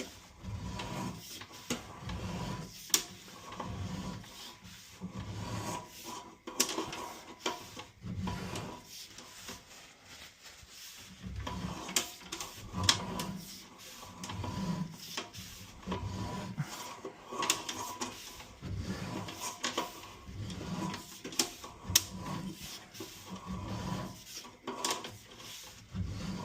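Sewer camera push cable being pulled back by hand, rubbing and clicking irregularly against the reel and guide. A faint steady high tone runs underneath.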